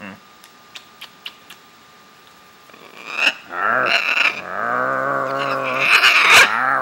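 Blue and gold macaw making a long, low, croaking, growl-like vocalisation that starts about three seconds in, wavering at first, then held, and loudest near the end. A few faint clicks come before it.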